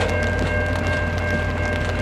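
Train running past on the track: a steady low rumble with faint, steady high-pitched tones above it, after the horn has stopped.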